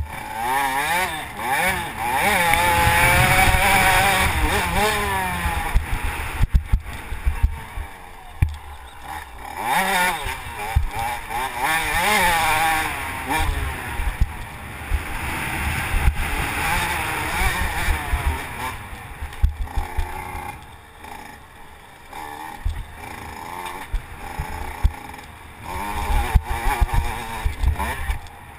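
Motocross bike engine revving hard, its pitch rising and falling over and over as the rider accelerates and shifts, heard close up from an on-board GoPro. It is loudest in the first few seconds.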